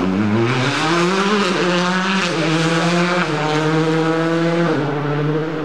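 Rally car engine at high revs. Its note climbs for about a second and a half, then holds and drops in three steps.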